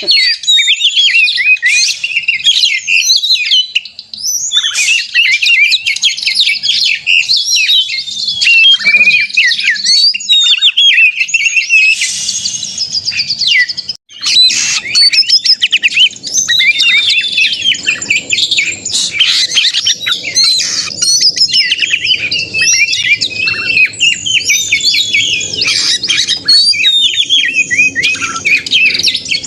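Male oriental magpie-robin (kacer) singing loudly and without let-up, a fast stream of varied whistles, chirps and harsher notes, broken only by short pauses about four and fourteen seconds in. It is the aggressive, challenging 'narung' song of a bird in full voice, the kind used to provoke other males into singing.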